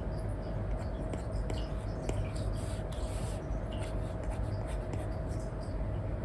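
Apple Pencil 2 nib scratching and tapping across a paper-like matte screen film on an iPad: many short, quick pen strokes in irregular succession. A steady low hum with a faint constant tone runs underneath.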